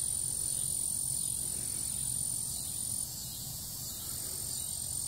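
Steady high-pitched insect trill, of the kind crickets make at dusk. It breaks off about three seconds in and picks up again a second later, over a faint low background rumble.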